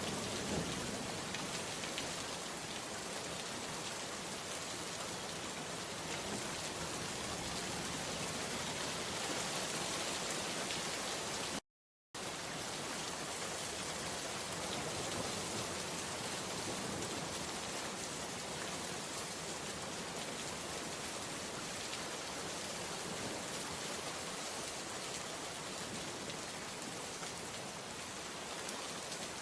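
Steady rain falling and pattering on surfaces, an even hiss of many drops. A little under halfway through it cuts out completely for about half a second, then carries on unchanged.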